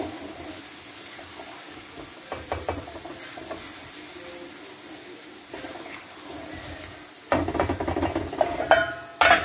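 Whole small onions sizzling in oil and masala in a karahi while a spatula stirs them, scraping against the pan. The scraping and clatter are loudest in the last two seconds.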